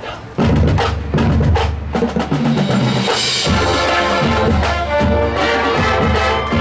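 Marching band playing: the drumline and bass drums come in suddenly and loudly about half a second in, and the band's held wind chords build over the drums from about halfway through.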